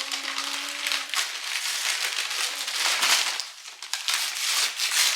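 Gift wrapping paper crinkling and rustling in irregular bursts as birthday presents are handled and unwrapped. A short held voice sounds in the first second.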